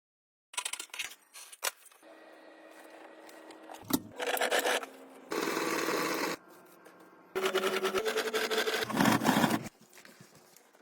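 Workshop work sounds: scraping and rubbing, then three bursts of a small motor-driven tool running, the last and longest lasting about two seconds.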